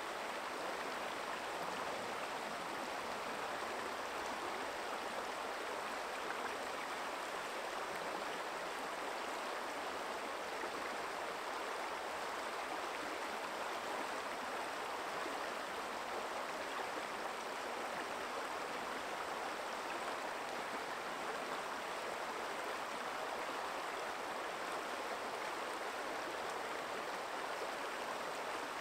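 Small forest stream flowing and babbling steadily over stones.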